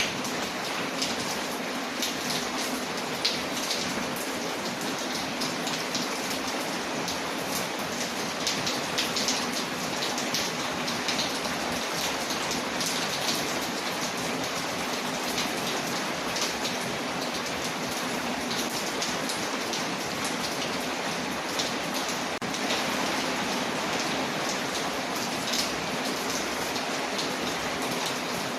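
Steady rain on a window mixed with a crackling fireplace: an even hiss scattered with frequent small ticks and pops.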